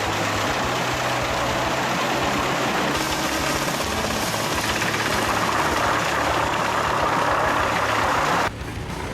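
Wood chipping and grinding machine running steadily: an engine drone under a dense shredding noise. The sound cuts off suddenly near the end.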